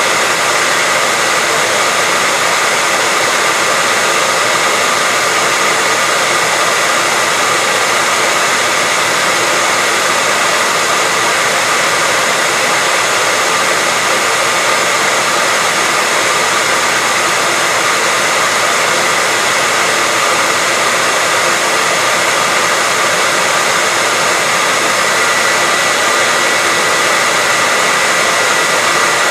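Hair dryer running steadily: an even rush of blown air with a steady high tone through it.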